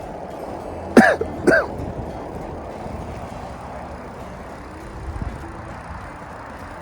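Steady wind and riding noise on the microphone of a moving bicycle. About a second in, two short, loud pitched sounds half a second apart, each rising and falling in pitch.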